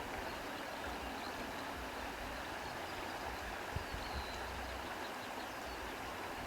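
Steady rushing of wind through foliage, with a few faint bird chirps.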